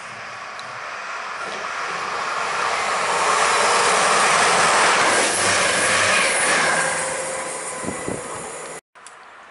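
A diesel multiple unit passenger train runs through the station without stopping: the rumble of its engines and wheels on the rails builds to a peak about halfway and then fades. The sound cuts off suddenly near the end.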